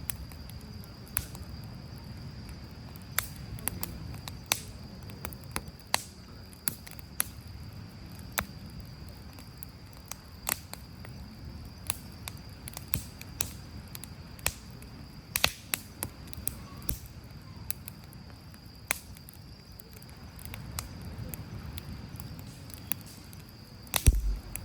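Firewood burning in a campfire, crackling with irregular sharp pops over a low steady rush of flame. A louder low thump with a cluster of pops comes near the end.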